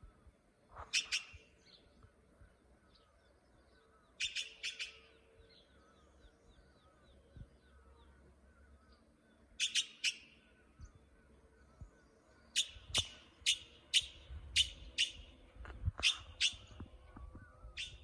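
A bird giving sharp calls in short clusters of two to four notes, then a longer run of about ten notes in quick succession in the last third, over fainter birds chirping.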